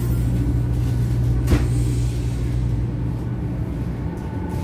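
Steady low rumble inside a Series 500 Shinkansen car, with a single sharp knock about a second and a half in.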